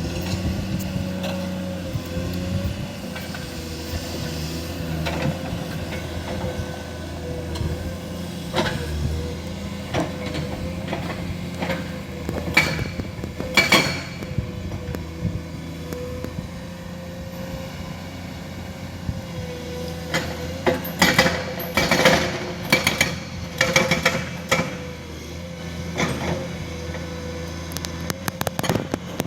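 Excavator's diesel engine running steadily with a steady whine, while rock knocks and clanks against the steel bucket in irregular bunches, heaviest about halfway through and again in the last third.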